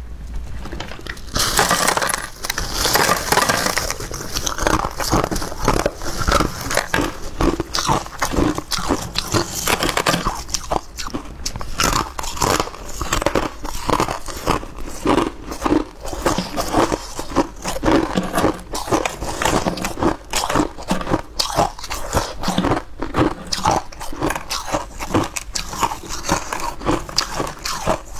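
Hard clear ice being bitten and chewed close to the microphone: rapid, irregular crunching and cracking, heaviest in the first few seconds.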